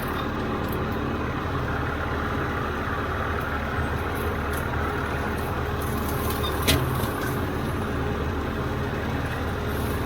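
Mowing machine's engine running steadily while cutting grass, with one sharp click about seven seconds in.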